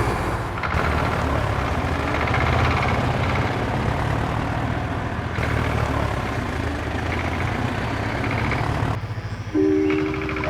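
Tractor engine running steadily with a low, rattly rumble. Near the end it drops away and a simple tune of held electronic notes begins.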